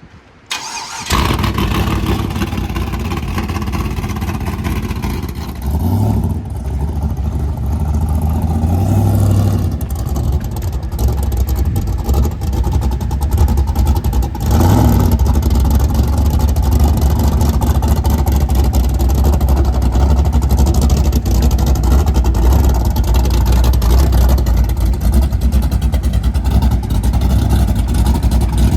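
Burnout truck's engine starting about a second in, then running loudly at idle with a few short revs.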